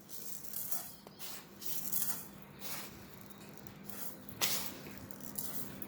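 Granulated sugar being poured into a pan, a series of short hissing pours of dry grains.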